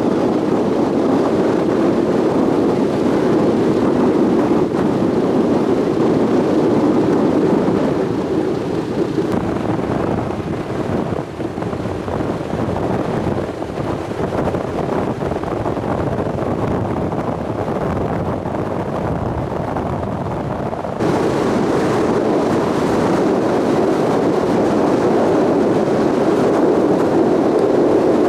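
Sightseeing cruise ship under way: a steady drone of engine and rushing water mixed with wind buffeting the microphone. It grows softer partway through, then jumps back to full strength abruptly about three-quarters of the way in.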